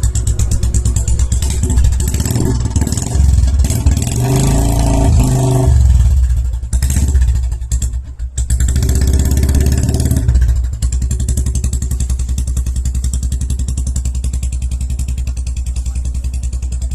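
Motorcycle engine running with throttle blips through the first half, easing off briefly near the middle, then settling into a steady idle for the last several seconds.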